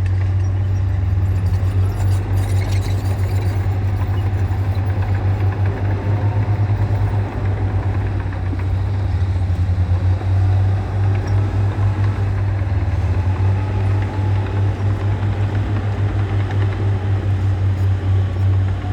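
Diesel engine of heavy earthmoving machinery running steadily, a deep, evenly pulsing engine note.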